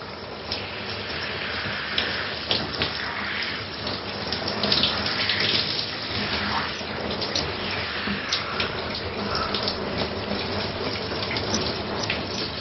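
Shower running: a steady spray of water splashing onto a floor or body, with small scattered splashes and drips.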